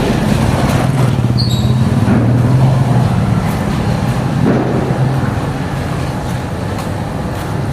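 A motor vehicle's engine running close by, a steady low drone that is loudest through the first few seconds and then eases off as it moves away.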